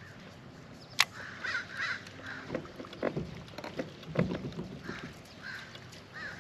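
A bird giving repeated short harsh calls, like crow caws, several in a row, with a sharp click about a second in and a few dull knocks.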